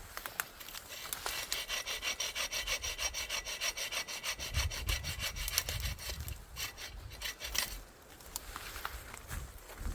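Short hand saw cutting through a felled tree trunk in quick, even back-and-forth strokes; the sawing stops about eight seconds in.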